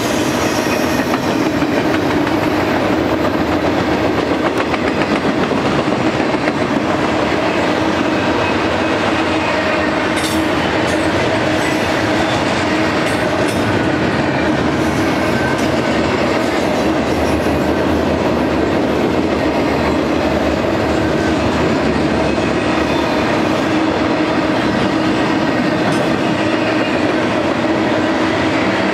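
Double-stack intermodal freight train rolling steadily past: the steel wheels of the container-laden well cars rumble on the rails, with a steady droning tone underneath and occasional clacks over the rail joints.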